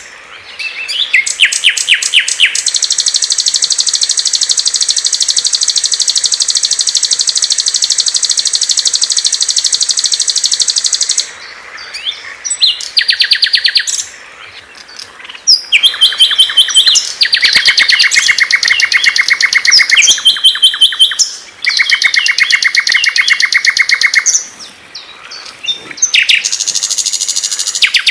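Small songbirds singing loudly in fast, high-pitched trills: one trill held for about eight seconds, then shorter trilled phrases and chirps with brief pauses between them.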